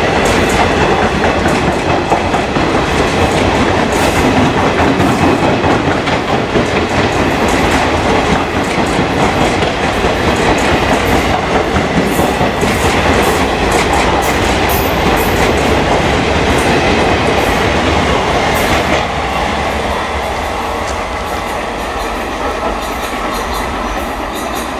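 Passenger coaches of an express train passing close by at speed, their steel wheels clattering over the rail joints with a steady rumble. The noise falls away near the end as the last coach moves off down the track.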